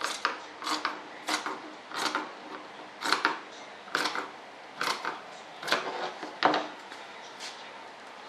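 Scissors snipping through duct material. It is a series of about a dozen crisp cuts at an uneven pace, roughly one a second or a little faster.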